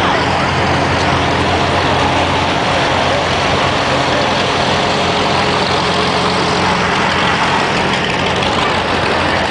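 Tractor engine running steadily, a low even drone with no revving.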